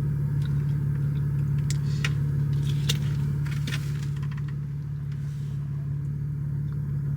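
Steady low hum of a car idling, heard from inside the cabin, with a few light clicks and rustles.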